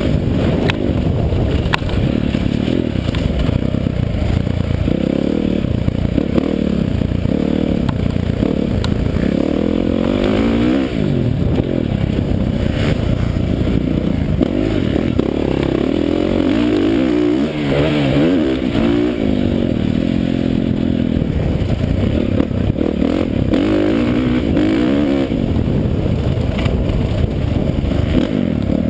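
Motocross dirt bike engine revving up and falling back again and again as it is ridden, loud throughout, with a few sharp knocks and clatter.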